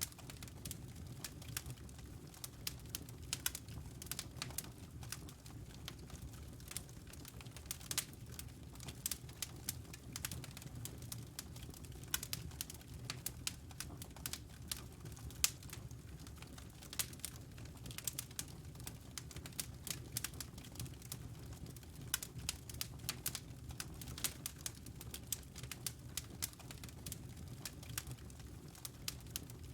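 Wood fire burning in a fireplace: a steady low rumble of the flames under frequent, irregular crackles and pops from the burning logs.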